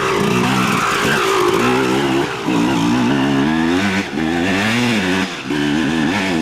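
Dirt bike engine revving hard, its pitch climbing and falling as the rider works the throttle, with brief drops about two and a half, four and five and a half seconds in.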